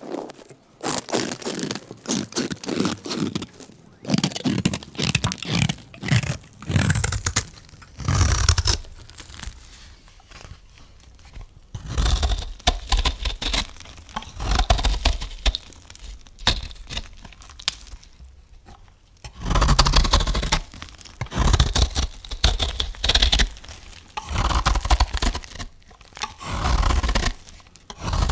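A knife cutting through soap: repeated crunching, scraping strokes in clusters with short pauses between them, some with a dull thump.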